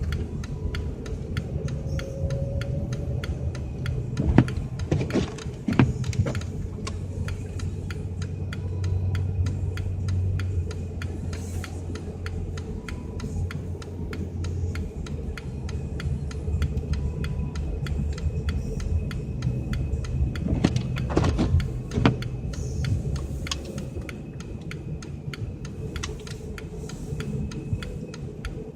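Car driving: a steady low rumble of engine and road noise, with two short spells of clicks and knocks.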